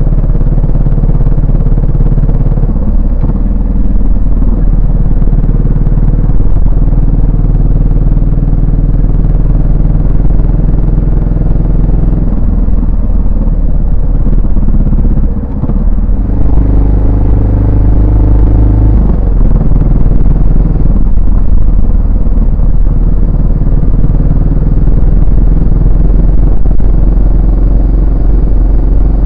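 Yamaha SR400 motorcycle's single-cylinder four-stroke engine and exhaust, running while riding. The engine note drops briefly about halfway through, then pulls harder for a few seconds before settling back to a steady cruise.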